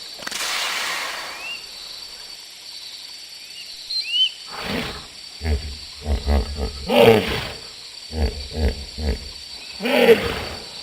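A big cat calling: a run of deep, rhythmic grunting roars building from about halfway through, with two loudest calls near the end. A breathy hiss comes at the start, and a few faint bird chirps are heard.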